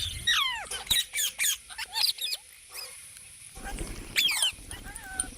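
Parrots calling: a quick string of sharp, shrill screeches, each gliding downward in pitch. A louder cluster of calls comes about four seconds in, after a short lull.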